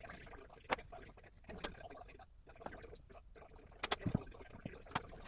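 Scattered light clicks and knocks, with a cluster of louder knocks and thumps about four seconds in.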